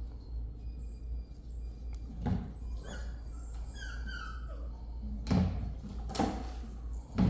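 A few dull knocks and thumps, the loudest two near the end, with faint high sliding whines between them about halfway through.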